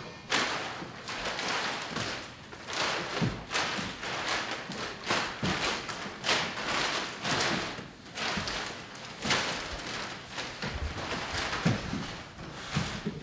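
A run of irregular thuds and knocks, about one or two a second.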